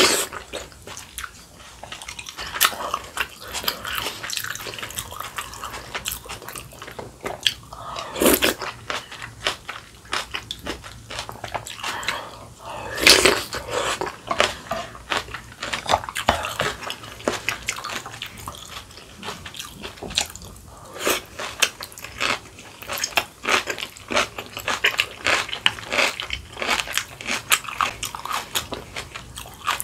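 Close-miked eating sounds: chewing and crunching of kimchi and mouthfuls of soup with rice, as a dense run of wet clicks and crackles. A few louder, longer sounds come about eight and thirteen seconds in.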